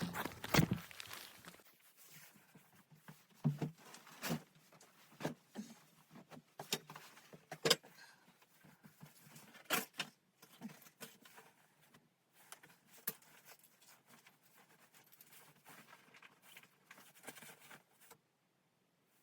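Irregular knocks and clicks in a small room, roughly one a second, with faint rustling between them; they stop shortly before the end.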